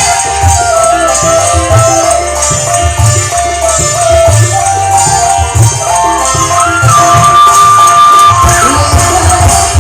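Dangdut band playing an instrumental passage with a steady drum beat, a shaker and a melody line, with one long held note near the end. No singing.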